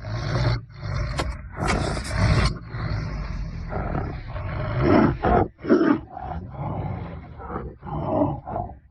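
A large animal roaring and growling, a series of uneven roars one after another, the loudest about five to six seconds in.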